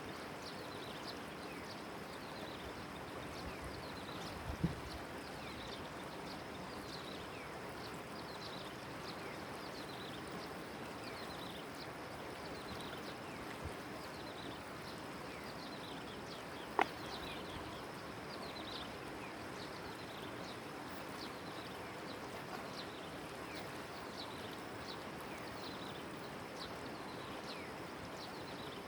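Steady rush of river water with many short, high, falling bird chirps throughout. Two sharp knocks, about 5 and 17 seconds in.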